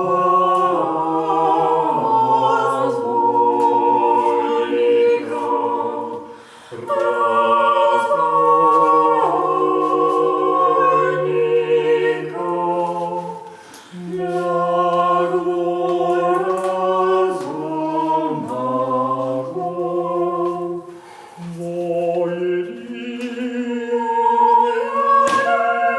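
A choir singing a cappella: several voices holding slow, sustained chords, with brief pauses between phrases about every seven seconds.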